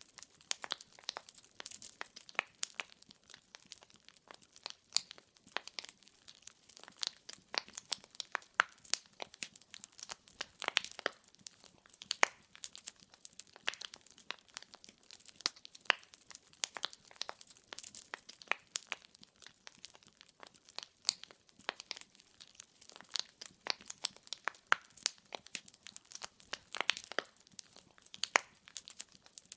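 Wood fire crackling: firewood logs burning with dense, irregular sharp pops and snaps over a faint hiss.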